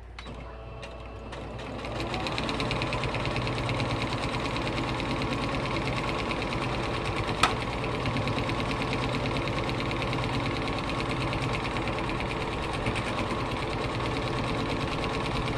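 Electric sewing machine stitching a seam, speeding up over the first couple of seconds, then running at a steady fast rate. There is one sharp click about halfway through.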